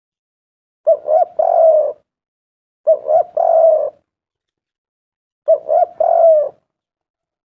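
Spotted dove cooing: three calls about two seconds apart, each two short coos followed by a longer drawn-out coo.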